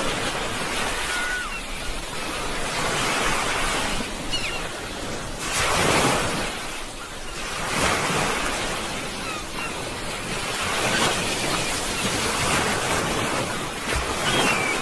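Sea waves breaking and washing in, a steady surf that swells and ebbs, loudest about six and eight seconds in. A few faint short high calls sound over it now and then.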